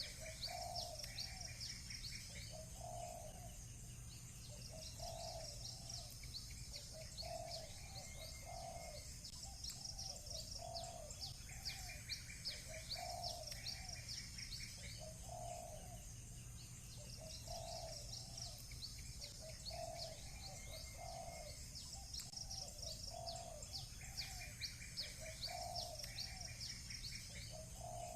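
Doves cooing again and again in short low calls, over small birds chirping in quick high runs and trills, with a steady low hum beneath.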